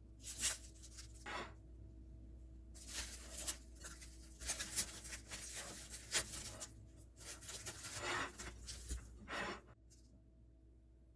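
Irregular rustling and scraping of a sandwich being handled in its paper wrapping, in a short bout and then a longer run of strokes that stop shortly before the end.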